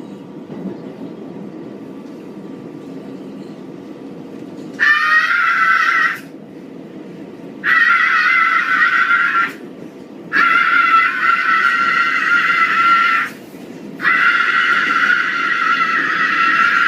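A woman screaming: four long, loud, high-pitched screams with short breaks between them, the first starting about five seconds in, over the low rumble of a subway car interior.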